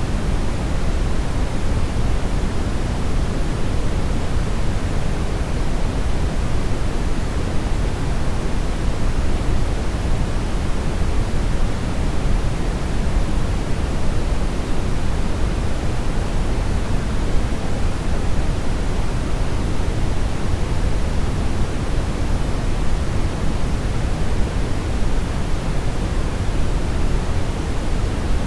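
Steady brown noise: a continuous, even rumble-like hiss weighted toward the low end, unchanging throughout.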